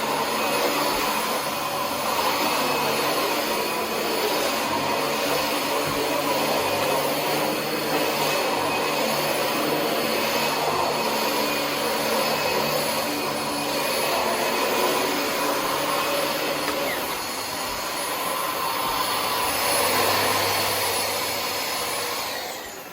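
Dyson DC25 upright vacuum cleaner running steadily while vacuuming: a dense motor-and-airflow noise with a thin high whine over it. Near the end the level drops away.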